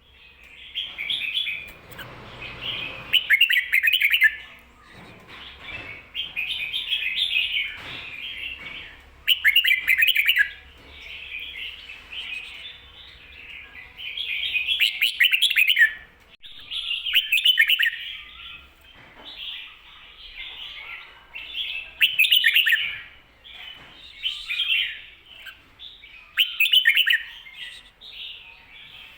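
Red-whiskered bulbul singing, repeating a short warbled phrase every two to three seconds: the 'ko-ta-ra' song with a doubled ending that bird keepers use to teach other bulbuls.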